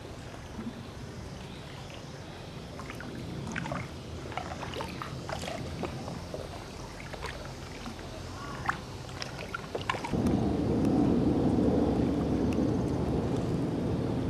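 Water splashing and small knocks around a sea canoe on the water, many short sharp sounds over the first ten seconds. About ten seconds in, a louder steady low rumble sets in.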